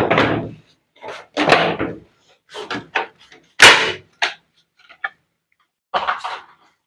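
A series of knocks and clunks from the panels and parts of a top-load washing machine being handled during disassembly, about half a dozen separate bangs. The loudest is a sharp knock about three and a half seconds in.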